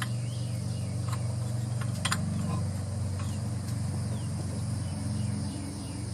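Insects chirring steadily in a high, even drone over a constant low machine hum, with a few sharp clicks of metal fittings being handled about one and two seconds in.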